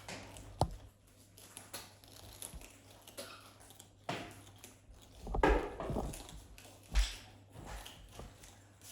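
Parrots biting and chewing raw young carrots: irregular crisp crunches and snaps, with a louder run of crunching a little past halfway.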